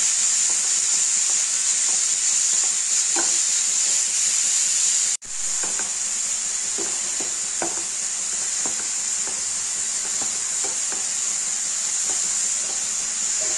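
Grated pumpkin sizzling steadily as it fries in ghee in a non-stick pan, with a spatula stirring it and tapping and scraping against the pan now and then. The sound briefly cuts out about five seconds in.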